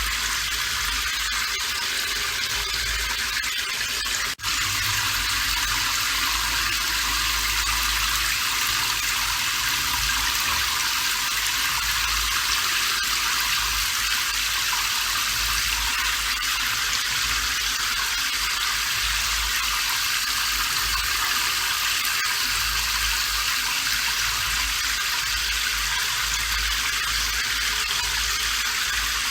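Steady rain, an even hiss with a low rumble beneath, broken by a brief dip about four seconds in.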